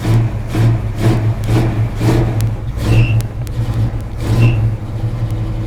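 Carbureted small-block Chevy V8 breathing through headers, running on a warm-up idle with no choke. Its note surges unevenly about twice a second, then settles into a steady idle about a second before the end.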